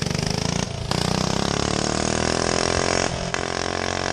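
Briggs & Stratton Animal single-cylinder four-stroke kart engine pulling under throttle, its pitch climbing steadily as the kart gains speed, with two brief dips, about a second in and about three seconds in.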